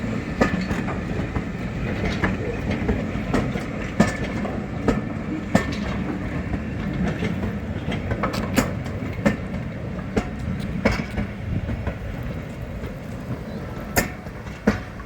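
Class 08 diesel shunter running steadily with a low rumble, with irregular sharp knocks over it.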